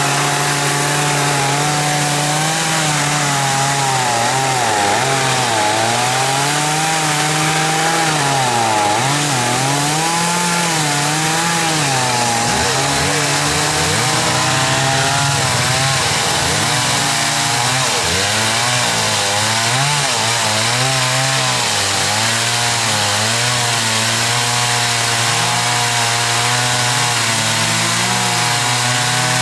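A two-stroke chainsaw running without a break, its engine pitch repeatedly rising and dipping as it is revved and loaded while sawing.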